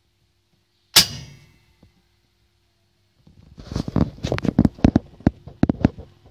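A single sharp clack about a second in, then a quick, irregular run of knocks and clatter, like hard parts being handled or struck.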